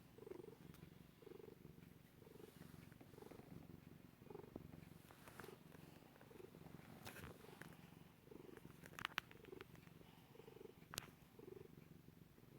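Domestic cat purring faintly as it kneads, a steady low rumble that swells about once a second, with a few sharp clicks in the second half.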